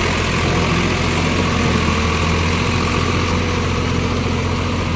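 Tractor's diesel engine running steadily at a constant speed with a deep, even hum.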